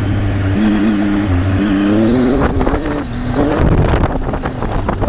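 Triumph Tiger 800 three-cylinder engine running under way, its note rising and falling with the throttle, over wind noise.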